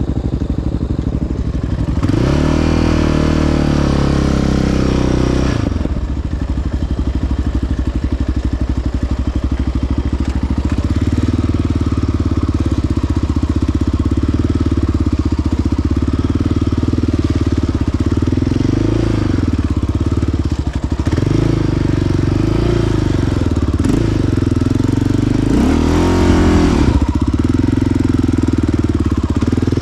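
Single-cylinder four-stroke ATV engine running close up, its pitch rising and falling as the throttle opens about two seconds in and again near the end.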